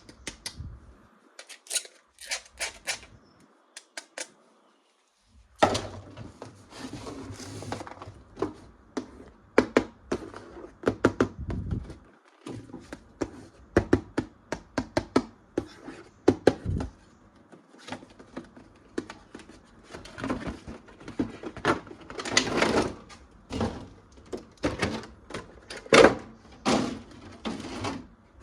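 Plastic toys and packaging being handled: irregular clicks, taps and knocks, with a brief pause about four seconds in.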